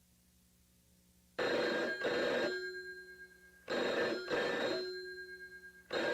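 Landline telephone ringing in a double-ring pattern: three rings about two seconds apart, each made of two short pulses, starting a little over a second in.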